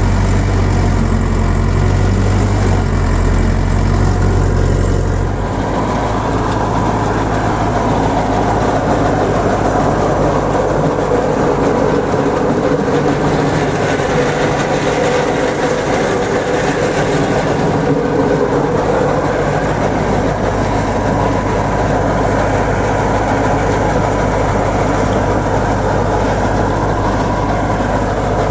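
YTO EMF 604 tractor's 60 hp diesel engine running steadily while driving a digger through its 1000 rpm PTO. About five seconds in the sound changes: the deep hum drops back and a noisier, busier sound takes over and holds.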